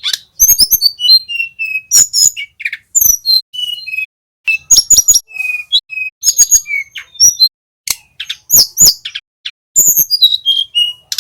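Blue flycatcher (tledekan) song: rapid, clear whistled phrases with quick rising and falling notes, interspersed with sharp clicks and short pauses.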